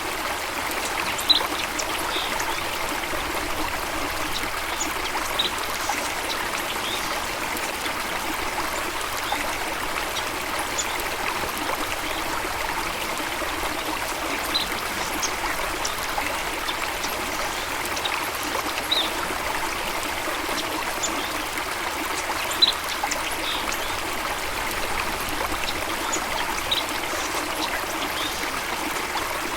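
Running water, a steady rush, with a few short, high bird chirps scattered through it.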